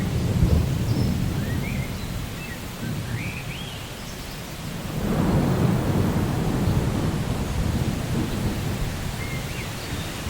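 Steady rain with rolling thunder: one rumble fading at the start and a longer one building from about five seconds in. A few short, rising bird chirps sound over it, mostly in the first few seconds and once near the end.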